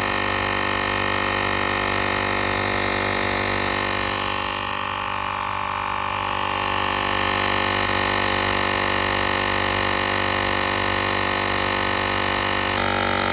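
Battery-powered portable air compressor running steadily while inflating a tyre, a pitched motor-and-pump drone; it dips slightly about five seconds in and its pitch shifts a little near the end.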